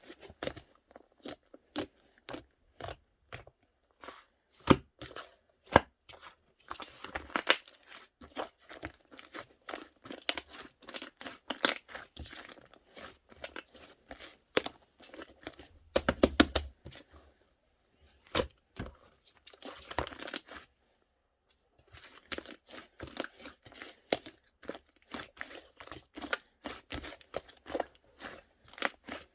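Slime being played with by hand: rapid trains of sticky pops and crackling clicks as it is pressed, poked and stretched, broken by short pauses.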